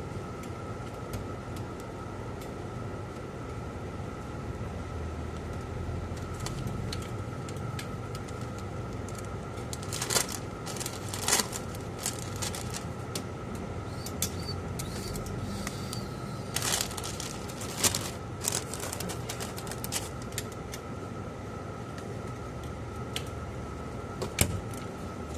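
Steady shop hum with a faint high tone, broken by a few scattered clicks and knocks, two near the middle of the stretch and one near the end.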